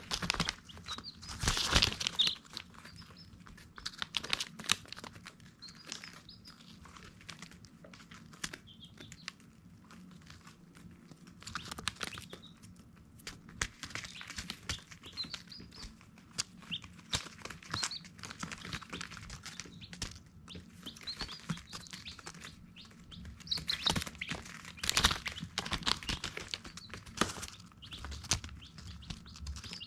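Baby chicks peeping: many short, high chirps overlapping one another, with frequent clicks and rustles in between.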